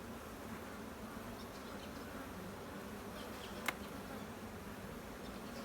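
Many honeybees buzzing steadily around an opened hive. A single sharp click sounds a little past halfway through.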